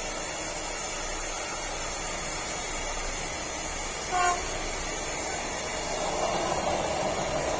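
Container wagons of an electric-hauled freight train rolling past on the rails, a steady rushing noise that grows louder near the end as the wagons pass close by. About four seconds in, a short single-pitched toot cuts through.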